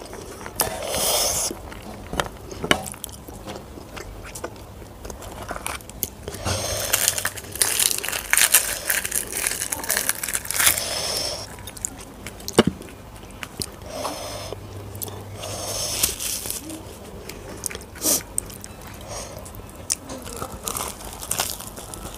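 Close-miked eating sounds: chewing and mouth noises from rice, curry and puri eaten by hand. Irregular sharp clicks and crunchy bursts of a second or two come and go throughout.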